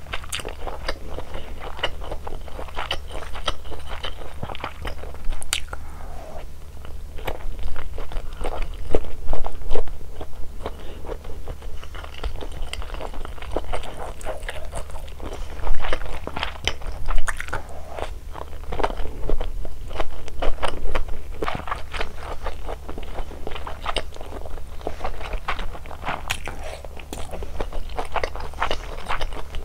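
Close-miked eating sounds of malatang: crunchy bites and wet chewing, with many small irregular crackles and a few louder bites.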